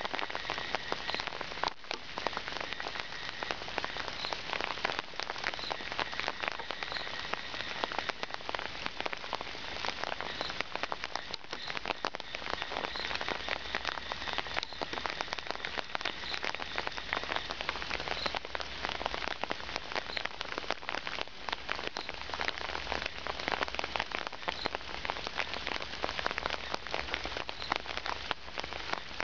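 Heavy rain pattering close by, with many drops ticking. A low rumble from the approaching diesel locomotive grows in underneath from about halfway through.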